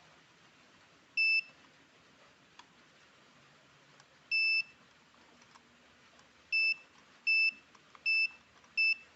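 Buzzer salvaged from a UPS, wired to a remote-control toy car's receiver as a wireless doorbell, sounding six short high-pitched beeps of one steady tone: two spaced a few seconds apart, then four in quick succession near the end.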